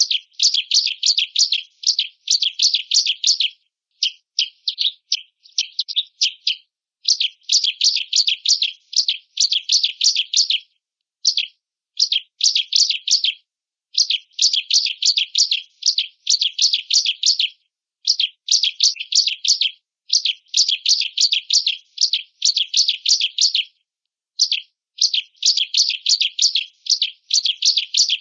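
Bar-winged prinia (ciblek) singing: fast runs of sharp, high chirps in bursts of one to two seconds, broken by short pauses, with no background noise.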